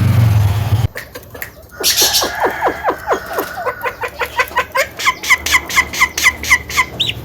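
Javan myna calling: a brief harsh burst about two seconds in, then a fast run of short, repeated falling notes, about four a second. A low hum under bird notes cuts off about a second in.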